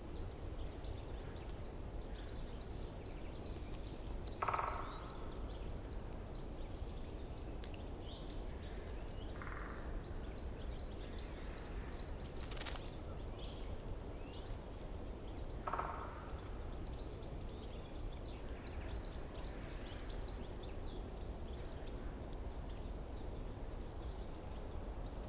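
Forest stream running steadily, with birdsong over it: a small bird sings four runs of quick, evenly repeated high notes, each a few seconds long. Twice a brief lower call comes in between.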